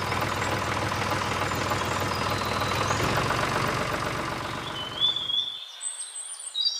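A steady rumbling noise, with its weight in the low end, runs for about five seconds and then cuts off. Birds chirp in short gliding calls near the end.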